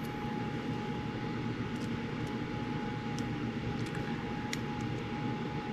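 Steady low mechanical drone with a thin steady whine over it, and a few faint light ticks of small metal parts being handled.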